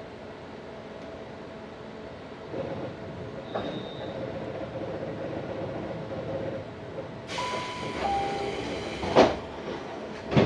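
Tobu 634-series train standing at a station: a sharp pneumatic hiss with a two-note falling tone, then the doors slam shut with two heavy thumps near the end.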